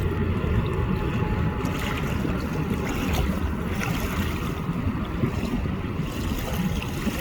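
Steady low rumble of a jet aircraft's engines on its takeoff roll, mixed with wind buffeting the microphone.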